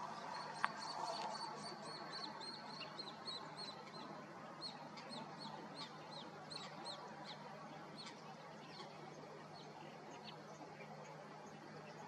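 Small bird calling in a long, rapid series of short, high chirps, a few each second, that thin out and fade over the last few seconds. A sharp click comes near the start, over steady low background noise.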